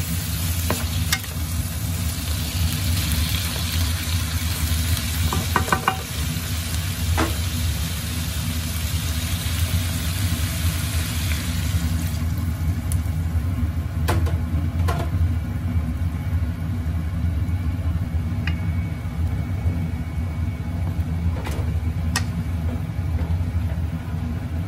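Jackfruit and fish sizzling in a frying pan while a wooden spoon stirs and knocks against the pan; about twelve seconds in, coconut milk is poured in and the sizzle dies down. A steady low hum runs underneath throughout.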